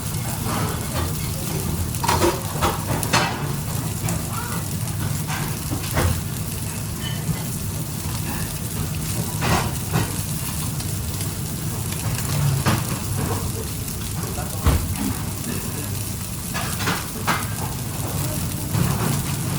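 Food sizzling in a hot pan, with scattered clinks and knocks of a cooking utensil against the pan.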